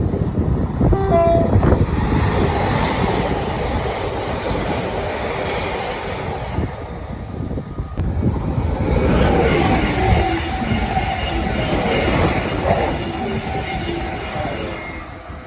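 Train passing close by: a loud, heavy rumble that starts abruptly and fades near the end, with brief steady squealing tones about a second in and again about nine to thirteen seconds in.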